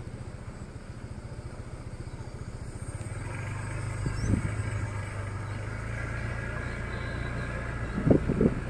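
Motorbike engine running steadily under way, its low pulsing hum growing louder about three seconds in. There are a few short thumps, one around four seconds and a cluster near the end.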